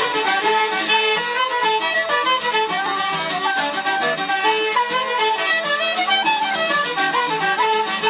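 Irish traditional band playing a jig, fiddle to the fore over quick running melody notes and a steady beat.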